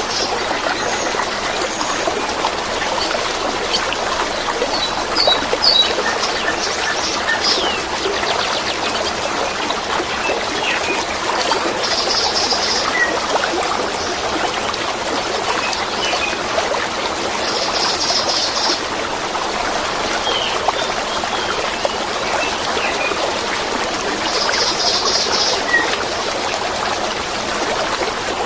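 Running water: a stream or small waterfall trickling and babbling steadily, with songbirds chirping over it. A high, buzzing trill about a second long sounds three times, roughly six seconds apart.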